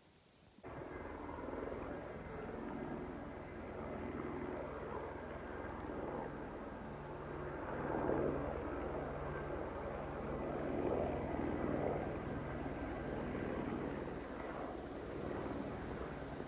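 Steady engine drone with a low hum, swelling slightly a few times; it starts and stops abruptly.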